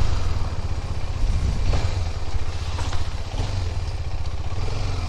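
KTM 250 Adventure's single-cylinder engine running at low speed under a haze of wind and road noise.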